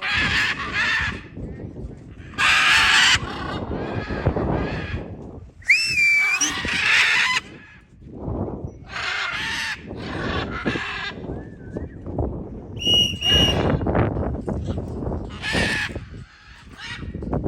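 Free-flying parrots giving loud, harsh squawks in separate bursts, one with a sweeping whistle and a pair of short clear notes near the end, over wind rumbling on the microphone.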